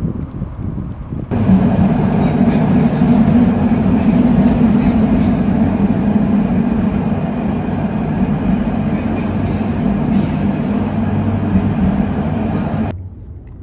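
Loud, steady mechanical rumble, heavy and low, that cuts in sharply about a second in and cuts off sharply near the end.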